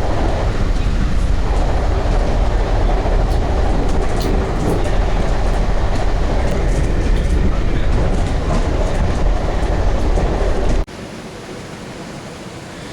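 Metrolink commuter train under way: a loud, steady rumble of wheels on rails, with scattered light clicks. It cuts off suddenly near the end to a much quieter steady background hiss.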